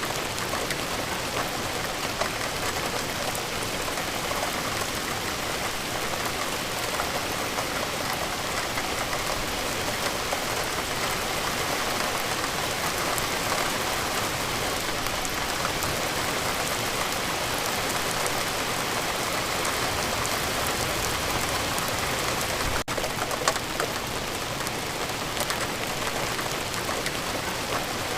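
Steady rain falling, an even hiss with scattered ticks of individual drops; it breaks off for a split second about three-quarters of the way through.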